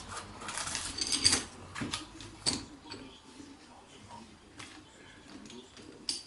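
Metal tools and steel gearbox parts clicking and clinking with a brief ring, a quick cluster of strikes in the first couple of seconds, then a few faint scattered clicks.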